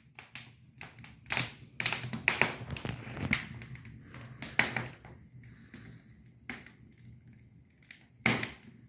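Firewood burning in a fireplace, crackling and popping: irregular sharp snaps, about a dozen, some louder than others.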